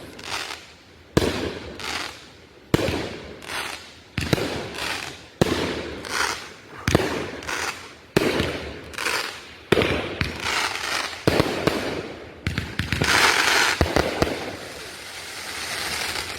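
Consumer aerial fireworks going off in a steady series of sharp bangs, about one every second and a half, each trailing off. About twelve seconds in, a dense crackling burst swells and then fades.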